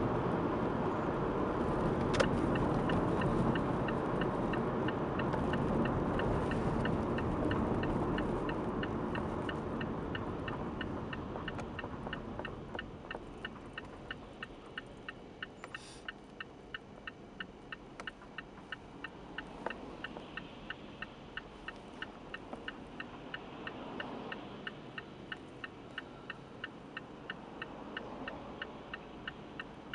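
A car's turn-signal indicator ticking steadily, about one and a half times a second, heard inside the cabin. Road noise under it dies away over the first dozen seconds as the car slows.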